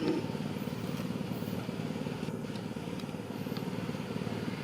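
A small engine running steadily, a low, rapidly pulsing hum, with a few faint ticks over it.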